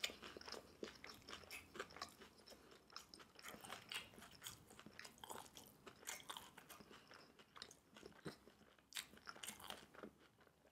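Close-miked chewing of a mouthful of battered sweet and sour pork and rice: faint, soft crunches and small wet mouth clicks at an irregular pace.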